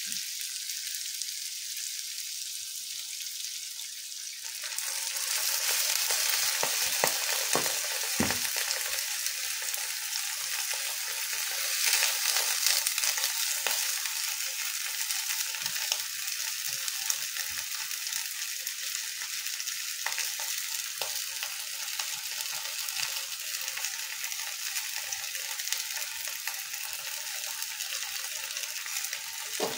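Tofu cubes, shrimp, tomato and chili frying in oil in a nonstick wok while being stirred with a silicone spatula. The sizzle steps up and grows louder about four and a half seconds in. Short knocks of the spatula against the pan come through now and then.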